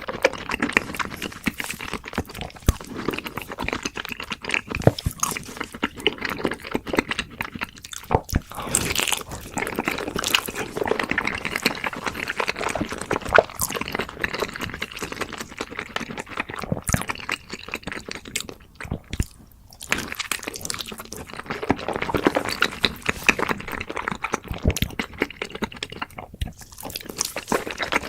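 Close-miked eating: wet chewing and crunching, with dense small clicks and smacks and a few brief pauses.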